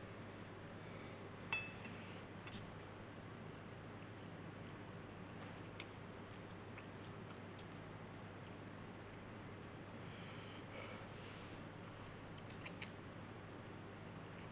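Soft chewing of a mouthful of spicy ramen noodles, with a sharp clink of a metal fork or spoon against the plate about a second and a half in and a few lighter utensil clicks later. A steady low hum runs underneath.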